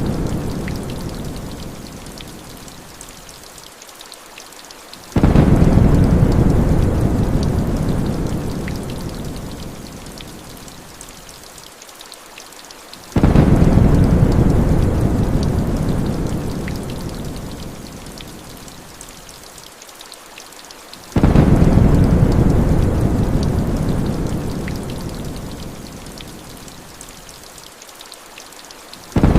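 Heavy rain falling steadily, with a deep rumble of thunder that starts suddenly and fades away over several seconds. The rumble comes back about every eight seconds: three times, and again at the very end.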